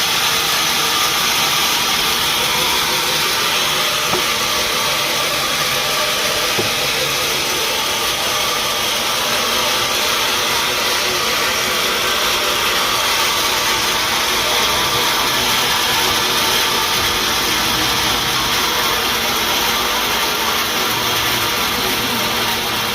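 Sawmill machinery running steadily: a loud, even hiss and drone that barely changes.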